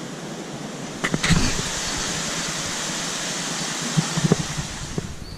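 A few sharp clicks, then a steady hiss that starts about a second and a half in and runs until nearly the end, with a few more light knocks near the end.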